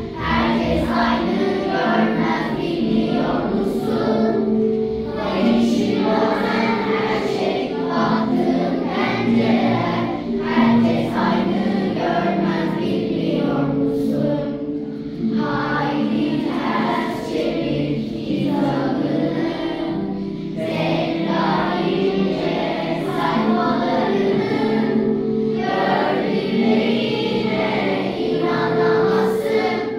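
A class of primary-school children singing a song together as a choir, with music.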